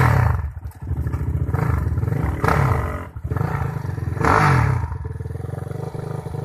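Dirt bike engine running at idle with three quick revs about two seconds apart, each one rising and then falling in pitch.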